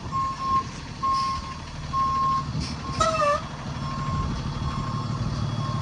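Reversing alarm of a 26 ft box truck beeping about once a second on a single steady tone, over the truck's engine running as it backs up.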